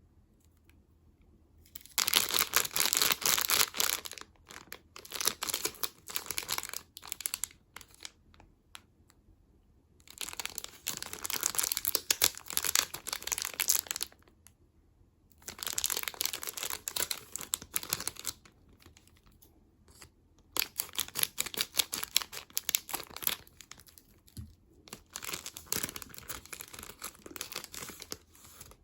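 Plastic snack wrappers crinkling and tearing open as they are handled, in about six bouts of a few seconds each with short pauses between.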